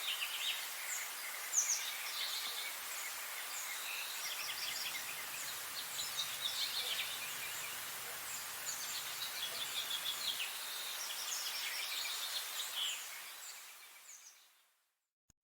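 Several songbirds chirping and singing over a steady outdoor hiss. The whole soundscape fades out to silence near the end.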